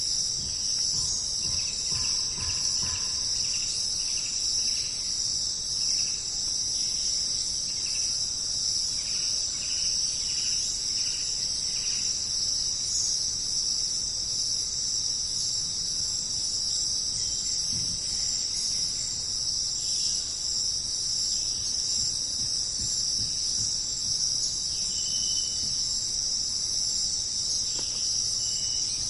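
Steady, high-pitched chorus of many crickets trilling together without a break. Faint short bird calls repeat through the first dozen seconds, and a couple more come near the end.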